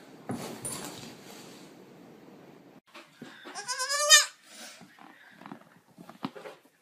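A young goat kid bleats once, a short wavering call about three and a half seconds in. A few faint taps follow.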